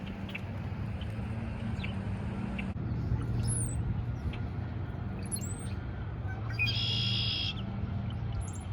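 Wild birds chirping in spring: scattered short chirps and quick whistled glides, with one louder, harsher call about seven seconds in, over a steady low hum.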